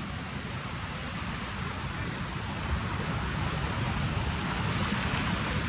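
Wind buffeting the microphone over the wash of ocean surf, the surf's hiss growing a little louder near the end.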